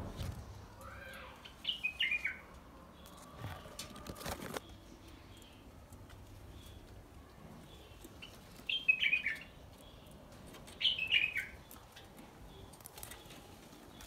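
Small cage birds chirping in three short bursts of quick, falling notes.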